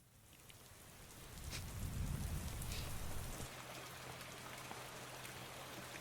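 Rain falling, fading in from near silence and reaching its fullest about two seconds in, with a low steady hum joining underneath partway through.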